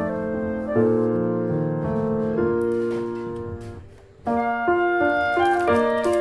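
Background piano music: slow sustained chords that fade out about four seconds in, then a new phrase begins.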